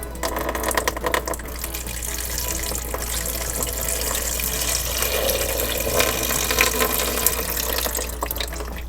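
Water running from a toy sink's faucet into the basin in a steady stream, with a few light knocks.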